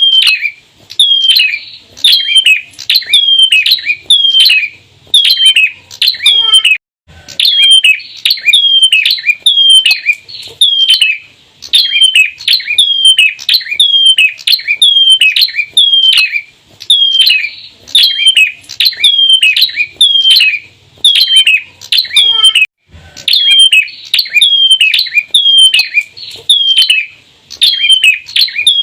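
Bar-winged prinia giving its rapid 'ceplir' call: a long run of sharp chirps, each sliding down in pitch, about two a second, with brief breaks about seven seconds in and again near the end.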